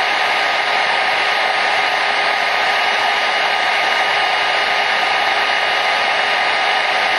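Hair dryer running steadily: an even rush of air with a faint steady motor whine through it.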